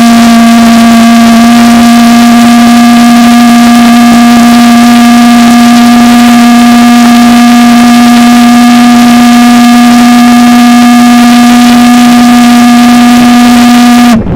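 Propane-fuelled valveless pulse jet engine, the Beck Technologies Focused Wave engine, running with a very loud, steady buzzing drone of about 230 pulses a second. It cuts off suddenly near the end.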